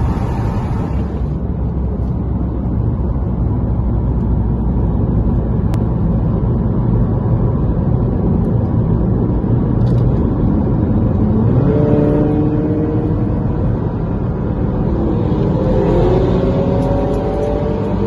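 Cars accelerating hard on a highway, heard from inside a following car's cabin: a heavy, steady drone of engines and road noise. About two thirds of the way in, engine notes start climbing in pitch, gear after gear.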